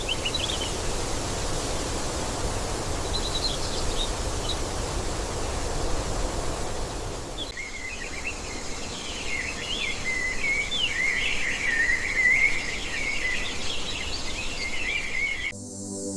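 Steady outdoor background noise with a few scattered bird chirps, then from about halfway a stretch of busy, continuous bird chirping. Soft ambient music comes in near the end.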